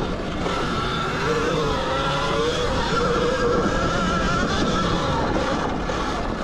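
Zero XB electric dirt bike's motor whining as it rides, its pitch drifting up and down with speed, over a steady rushing noise.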